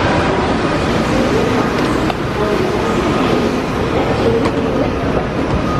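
Train noise at a railway station platform: a loud, steady rumble and rush of a train, with a couple of light clicks.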